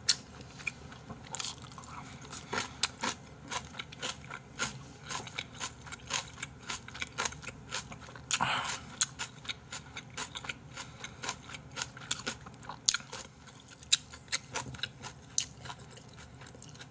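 A person eating close to the microphone: chewing and biting Chapagetti noodles and cabbage kimchi, with many short wet mouth clicks and crunches. There is one longer noisy stretch about halfway through.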